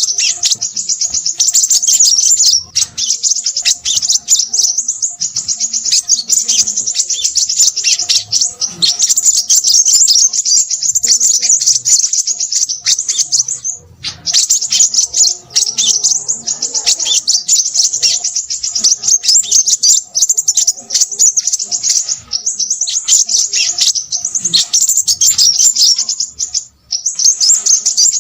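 Crimson sunbird singing a fast, continuous, high-pitched twittering chatter, with short pauses about halfway through and near the end.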